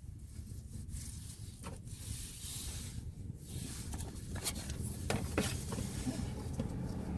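Faint scraping and a few light, irregular clicks of a wrench tightening the engine oil drain plug, over a steady low hum.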